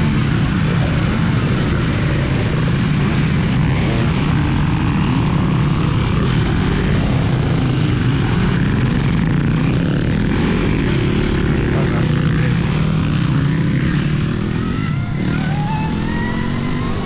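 Stark Varg electric motocross bike being ridden, with a steady low rushing noise throughout. Near the end a high electric-motor whine rises in pitch as the bike accelerates.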